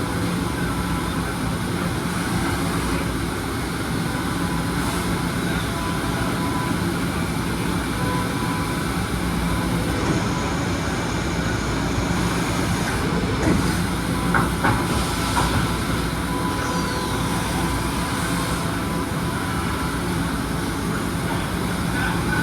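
Kan KH-6 CNC deburring washing machine running: a steady mechanical rush with a low hum, and a few short knocks about two thirds of the way in.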